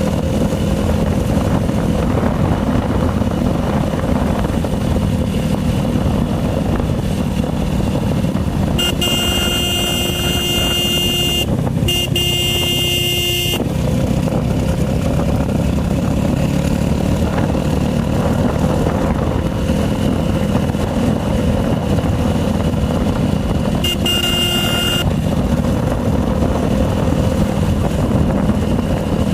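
Motorcycle engine running steadily while riding. A vehicle horn sounds twice: a long honk about a third of the way in, broken briefly in the middle, and a short honk near the end.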